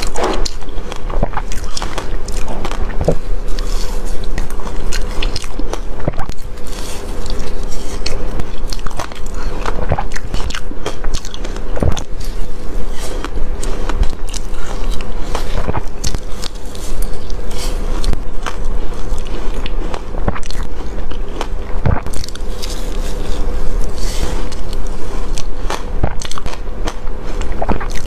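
A person biting and chewing soft reshaved freezer ice close to the microphone: loud, continuous, irregular crunching and crackling.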